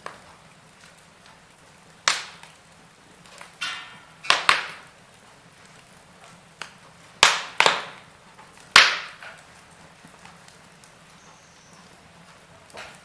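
Wood fire crackling: a series of sharp snaps and pops from the burning logs, most of them in the first two-thirds and one weaker one near the end, over a faint steady hiss.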